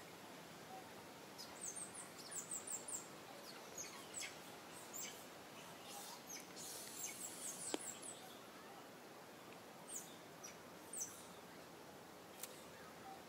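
Faint outdoor background with short runs of quick, high chirps from small birds, several chirps at a time, recurring a few times. A single sharp click is heard about two-thirds of the way through.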